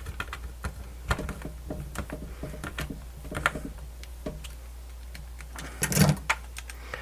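Small plastic and metal clicks and rattles as screws and case parts of a portable radio are handled and fitted, with a louder cluster of clicks about six seconds in.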